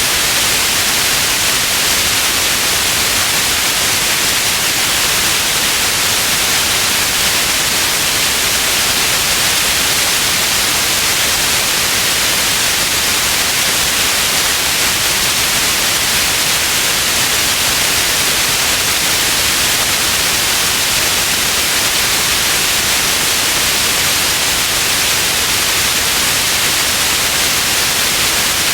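Steady white noise, an even hiss with most of its energy in the upper range, unchanging throughout.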